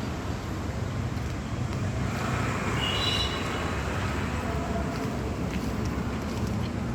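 Steady outdoor background rumble like road traffic, swelling briefly in the middle, with a short high tone about three seconds in.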